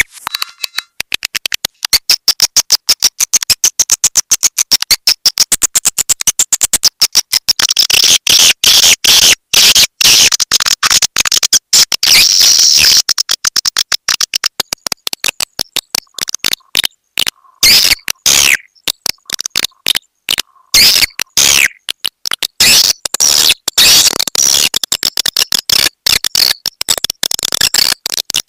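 Swiftlet lure call: a dense chorus of rapid chattering clicks and high twittering chirps from swiftlets, the kind of recording played to draw swiftlets into a nesting house.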